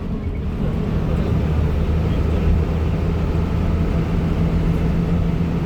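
Steady low rumble of a motor vehicle's engine running, with a hum that holds one pitch throughout.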